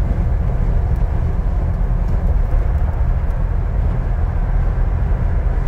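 Steady low drone inside the hardtop cabin of a 2006 Jeep Wrangler Rubicon cruising at about 60 mph: its 4.0-litre inline-six turning about 2,000 rpm, mixed with road and tyre noise. The noise stays level throughout, with no excessive noise.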